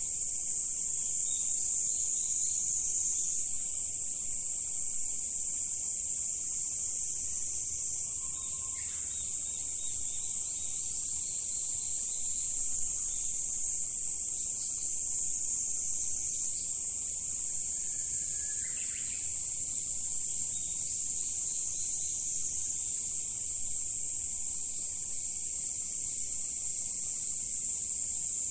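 Steady high-pitched chorus of insects shrilling without a break, with a faint short bird call about a third of the way in and another about two-thirds of the way in.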